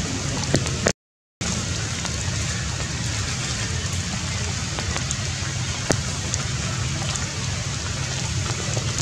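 Steady rain falling on tree leaves, a constant hiss with a few sharper drop hits. The sound drops out completely for about half a second, a second in.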